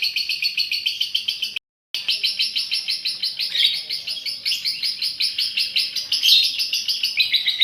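Female lovebird's long, rapid chattering trill (ngekek), fast repeated high notes at about ten a second. The sound drops out completely for a moment just after one and a half seconds, then the trill carries on.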